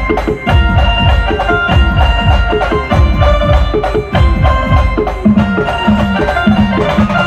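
Instrumental passage of a live band: rapid drum strokes that each drop in pitch, under held melody notes, with no singing.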